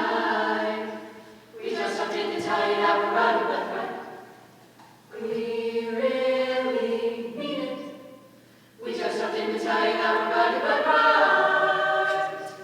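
A cappella vocal group singing in several-part harmony without instruments, in three phrases with short breaks between them; the last phrase dies away near the end.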